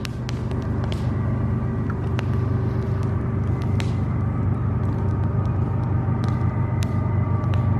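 Campfire crackling with irregular sharp pops, over a loud, steady, low mechanical rumble with faint steady tones from a passing heavy vehicle.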